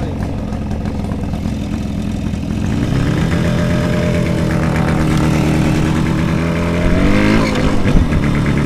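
Jawa 638 motorcycle's two-stroke twin engine running under way. The engine note steps up and holds steady about three seconds in, then revs up briefly near the end and drops back.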